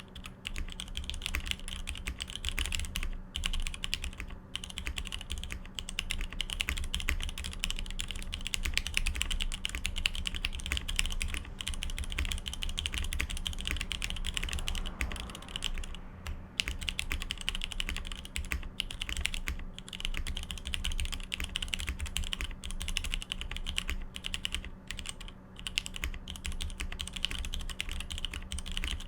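Continuous typing on a Matrix 2.0add custom mechanical keyboard with lubed, retooled Cherry MX Black linear switches (62 g) and GMK keycaps, making a dense, steady stream of keystrokes.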